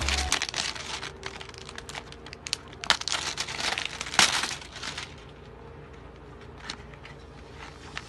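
A face-mask box and its packaging being opened by hand: crinkling and tearing with sharp clicks, busiest from about three to four and a half seconds in, then dying down to a few faint ticks.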